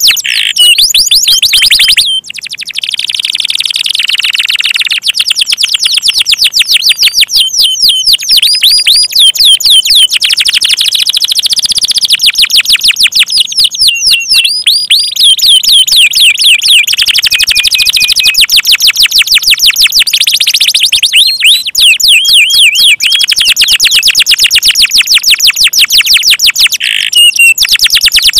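Domestic canaries singing in full, continuous song: long trills of fast repeated high chirps and sweeping notes, switching from one rolling phrase to the next every few seconds, with a brief break about two seconds in and another near the end.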